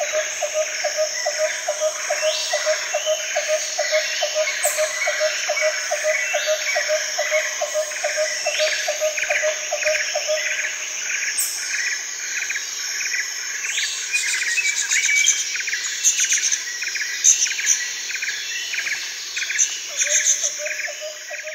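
Birds chirping over a steady high insect trill. A low call repeats about two and a half times a second, stops about halfway through and returns near the end.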